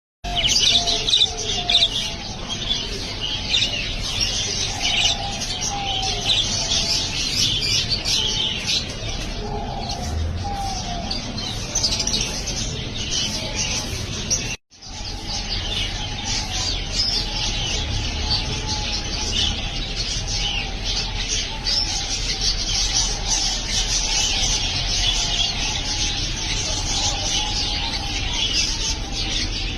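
A flock of budgerigars chirping and chattering without a break, many short high calls overlapping. The sound cuts out briefly about halfway through.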